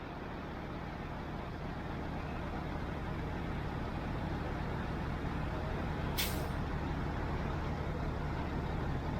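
Heavy truck diesel engine running steadily, slowly getting a little louder, with a short hiss of released air about six seconds in, typical of an air brake.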